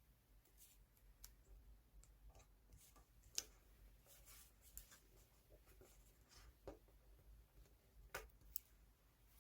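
Faint paper-crafting sounds: soft rustling of paper with scattered light clicks and taps, one sharper click about a third of the way in.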